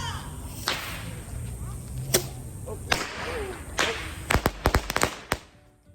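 Consumer fireworks going off: single sharp cracks about once a second, then a fast run of about six cracks that stops suddenly near the end.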